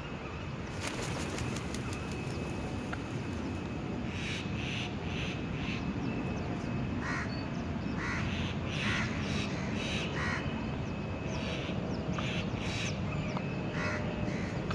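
Birds calling at a grain-feeding spot: many short, harsh calls, some in quick runs, over a steady low rumble. The calls become frequent from about four seconds in.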